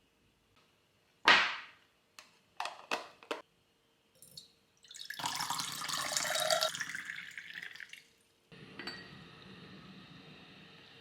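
A sharp knock, a few light clicks, then water running for about three seconds before cutting off, followed by a steady faint hiss.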